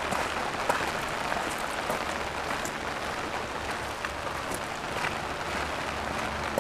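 Heavy rain pattering steadily on an open umbrella held overhead, a dense hiss of drops with many sharper individual drop taps.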